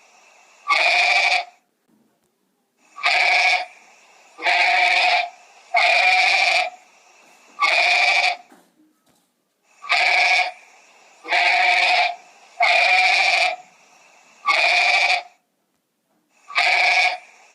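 An animal bleating over and over: about ten loud calls, each under a second long and all alike, coming in bunches with short pauses between.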